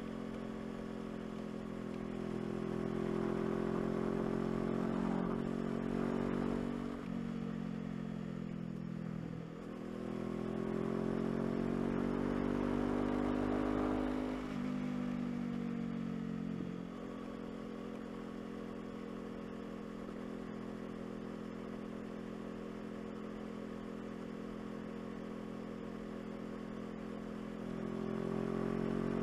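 Honda CBR500R's parallel-twin engine pulling through the gears. The pitch climbs and then drops sharply at each upshift, three or four times in the first half. It then runs at a steady cruising note and picks up again near the end.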